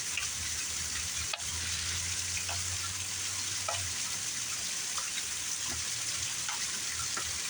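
Heavy rain falling steadily: a dense, even hiss with scattered faint ticks of drops striking nearby surfaces.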